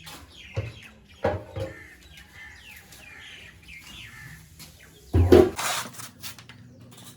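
Birds chirping, broken by a few knocks. The loudest knock comes about five seconds in.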